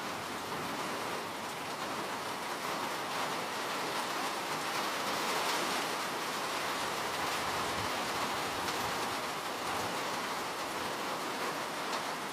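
Steady rain falling, an even hiss of many drops with no single drop standing out.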